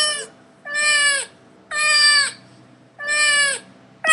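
Domestic cat meowing over and over, about once a second, each meow a short call that drops in pitch at its end.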